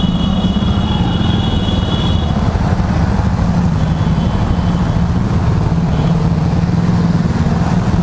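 Yamaha R15 V3's single-cylinder engine running steadily at low speed as the bike is ridden slowly through standing water in traffic. A shrill high tone sounds for about two seconds at the start and again briefly around halfway.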